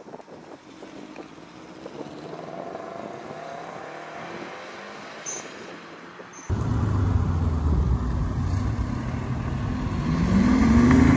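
Car engines pulling away one after another: a moderate engine note rising in pitch, then from about six and a half seconds in a louder, deeper engine as a BMW i8 accelerates past, its pitch climbing sharply near the end.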